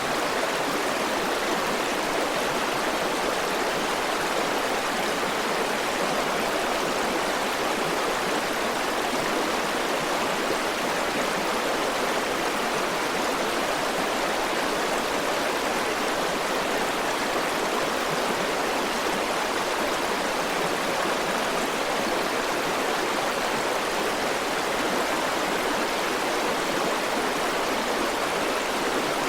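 River water rushing steadily over rocks, an even unbroken flow.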